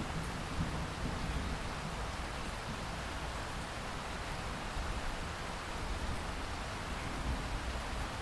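Steady rain, an even hiss of falling drops, with a low rumble of distant thunder fading out in the first second.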